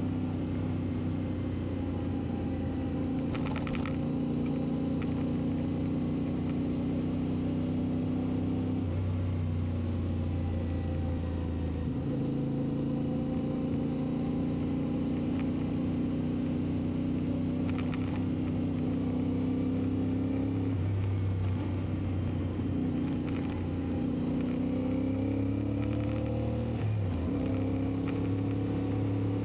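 CFMoTo 450 MT's parallel-twin engine running on the move, its pitch shifting with the throttle several times; near the end the engine pitch climbs and then drops suddenly, as at an upshift.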